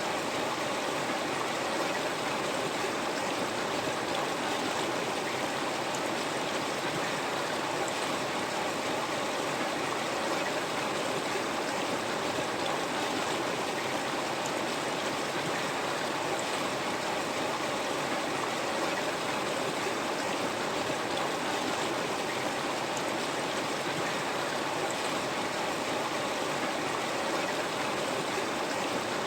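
River water flowing over rocks: a steady rushing and gurgling with no change in level.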